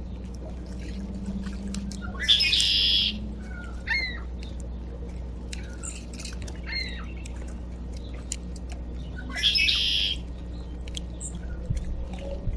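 Backyard birds calling at a feeder: two loud, harsh calls, one about two seconds in and one near ten seconds, with short chirps and rising whistled notes between them.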